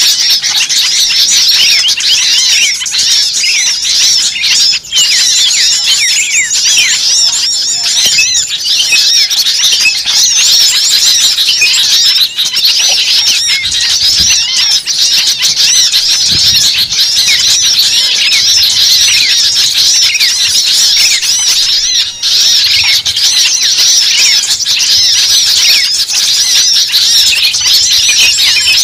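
Dense, unbroken chorus of many small birds chirping and squeaking at once, high-pitched calls overlapping thickly.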